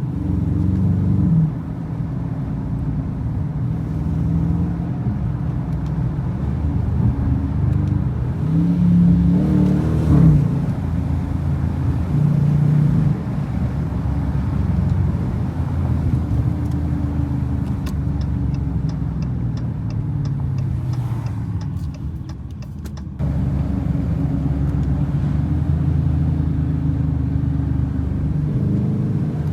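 Car engine running while driving, its note rising and falling with the throttle, climbing to a peak about ten seconds in.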